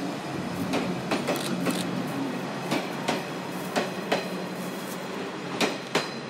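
A KuMoRu 145 + KuRu 144 two-car electric distribution train passing, its wheels clacking over rail joints and points in an irregular run of sharp clicks, over a steady low hum and running noise.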